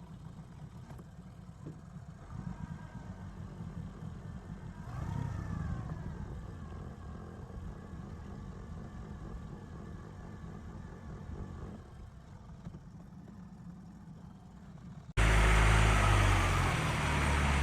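Small fishing boat's motor running steadily under way, a low rumble. About 15 seconds in, a sudden, much louder rushing noise of wind and water takes over.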